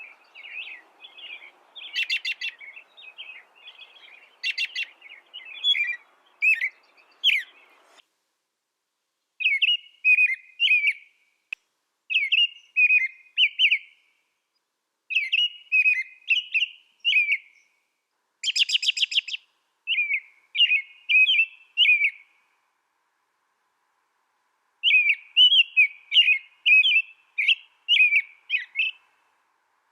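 A small finch singing in phrases of quick chirps and warbles, broken now and then by a short, buzzy rattle, with gaps of a second or more between phrases.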